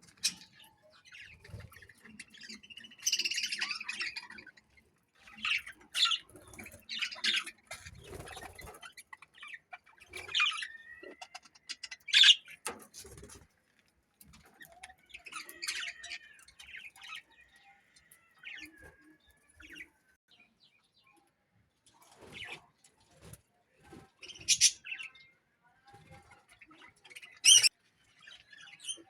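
Caged pet parrots chirping and squawking in short, irregular calls, with a few sharp, loud squawks and a couple of drawn-out whistles.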